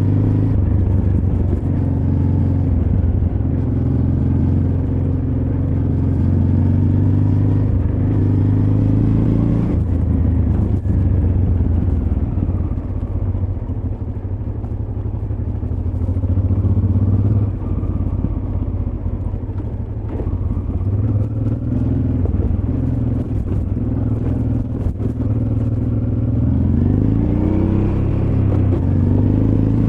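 Honda Transalp XL600V's V-twin engine under way, its note rising and falling with the throttle. Near the end it revs up with a rising note.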